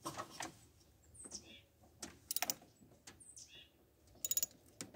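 A bird chirping faintly, one short call about every two seconds, with two quick runs of sharp clicks in between.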